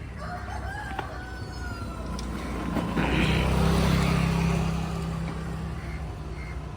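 A motor vehicle passing by, its engine swelling to a peak and fading over a few seconds, over a steady low traffic rumble.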